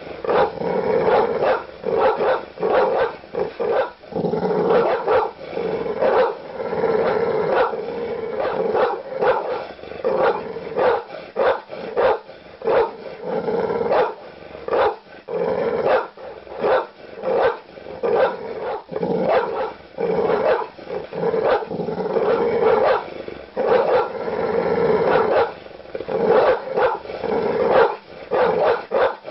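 Large dog barking aggressively in a rapid, unbroken run of deep barks, about one to two a second.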